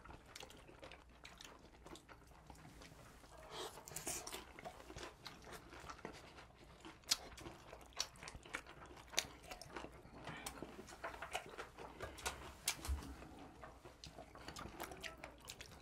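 Close-miked chewing and biting of pizza and fried chicken wings: faint, irregular crunches and wet mouth clicks, coming several a second in the second half.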